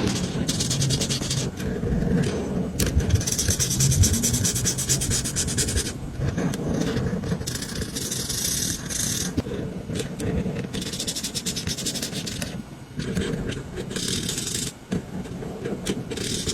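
A marker rubbing across paper while colouring in, in bursts of quick back-and-forth strokes, each burst about a second or two long with short pauses between.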